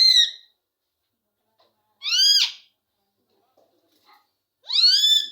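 Parrot calling three times, about two to three seconds apart, each call a half-second squawk that rises and falls in pitch.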